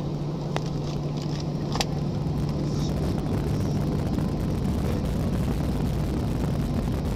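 Airliner cabin noise before takeoff: a steady low hum and rumble from the engines and air system, with a couple of faint clicks early on.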